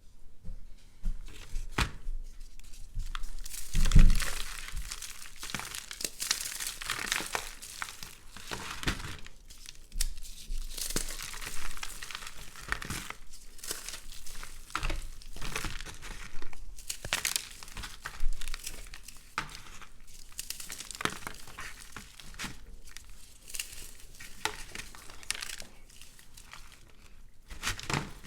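Brittle microwave-puffed soap mixed with cornstarch paste being crumbled and crushed by hand: dry crackling and crinkling in irregular bursts, with a few sharper crunches, the loudest about four seconds in.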